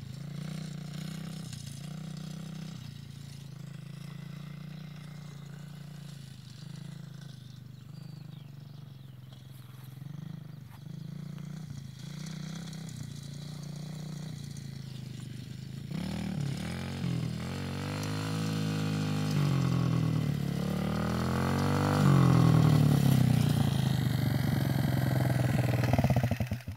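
125 cc dirt bike's single-cylinder engine running unevenly at low revs, then revved several times with rising and falling pitch as the bike is ridden off in second gear, getting louder. The engine cuts off suddenly at the end, stopped with the kill switch.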